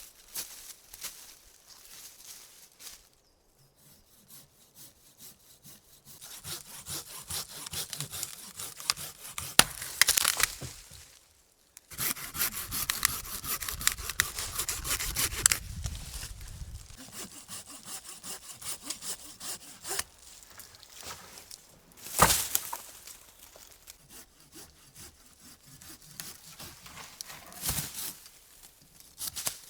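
Hand saw cutting through wood in long runs of quick back-and-forth strokes, with a short break about eleven seconds in. Later there are quieter stretches and two sharp knocks of wood.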